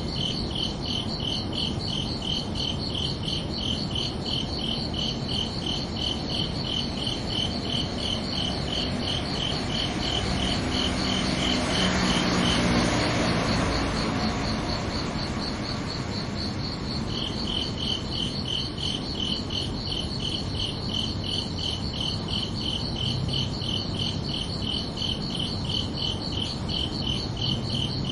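Crickets chirping in steady, even pulses, two of them at different pitches. The lower-pitched one falls silent for a few seconds in the middle while a brief swell of broad noise rises and fades.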